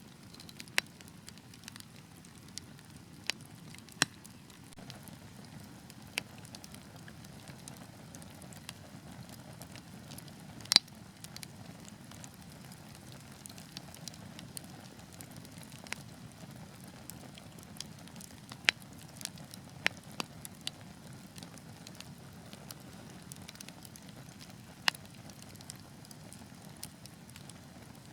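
Wood fire burning logs: a soft steady hiss under irregular sharp crackles and pops, a dozen or so scattered through, the loudest pop a little under halfway.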